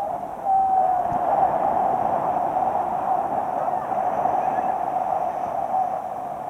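Steady wash of surf and wind on a beach, with one short whistle-like tone about half a second in.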